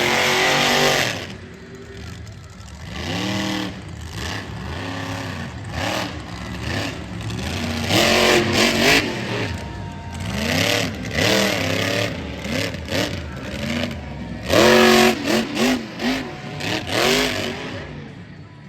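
Monster truck engine revving hard over and over, the pitch climbing and dropping in quick repeated blips, loudest at the start and again about fifteen seconds in.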